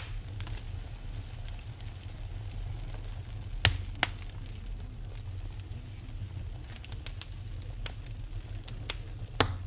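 Wood fire burning in a fireplace, crackling with scattered sharp pops over a steady low rumble; two loud pops come close together about 4 seconds in and another near the end.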